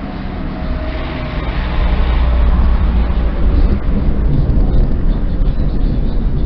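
Thunder rumbling, swelling about a second in into a loud, deep, sustained roll.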